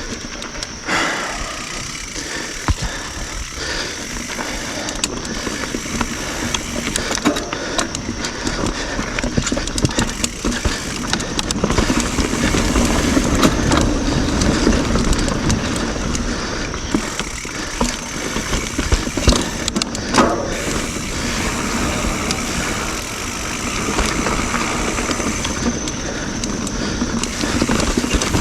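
YT Jeffsy full-suspension mountain bike ridden fast on dirt singletrack: continuous tyre and trail noise with frequent knocks and rattles from the bike over roots and rocks.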